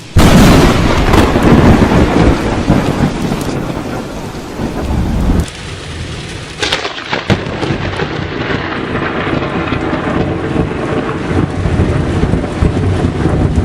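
A sudden, very loud thunderclap from a close lightning strike, rumbling on over several seconds with heavy rain. Another sharp crack comes partway through.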